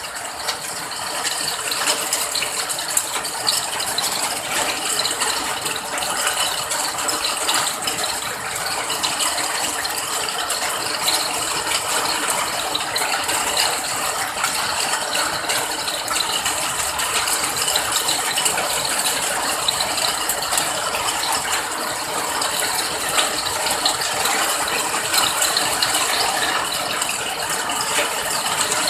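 Steady rain: a dense, even patter of drops with many fine ticks, at a constant level throughout.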